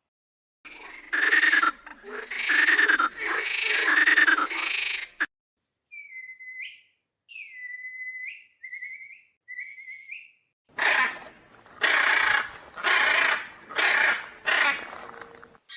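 Farm animal calls from several different animals in turn. First comes a run of loud, harsh calls, then a few quieter high chirps, then five more harsh calls.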